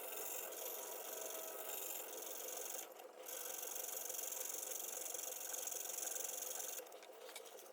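Steady hand rubbing and scraping, as when abrading a rusty awl part clean. It pauses briefly about three seconds in, then stops near the end, leaving a few light clicks.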